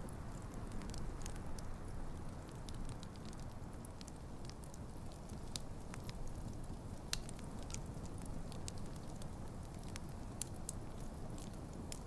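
Wood fire burning with a steady low rush of flames and irregular sharp crackles and pops from the burning logs; one pop about seven seconds in stands out.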